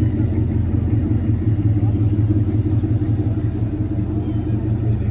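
A loud V8 car engine rumbling steadily at low revs through a loud exhaust.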